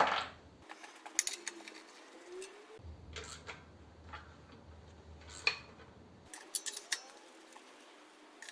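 Metal hand tools and engine parts clinking and clicking, with a sharp metallic knock at the start and scattered taps after it, as the clutch bolts are worked on.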